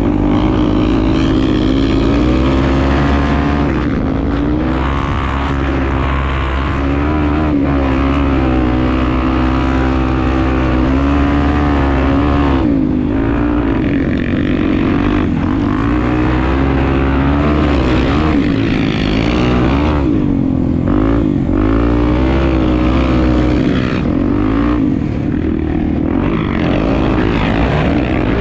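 Honda Tornado 250 single-cylinder four-stroke motorcycle engine running while being ridden, its revs rising and falling continually with throttle and gear changes.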